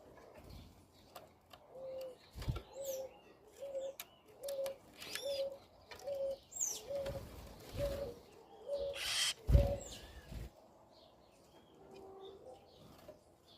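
A dove cooing in a steady series of short, low, even notes, roughly three every two seconds, which stops a few seconds before the end. Small birds chirp at a higher pitch over it, and a brief rush of noise with a thump comes near the end.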